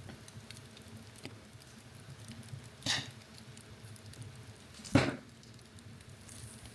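Wood fire crackling in a fireplace: a low steady rumble with small ticks, and two sharp pops about three and five seconds in, the second louder.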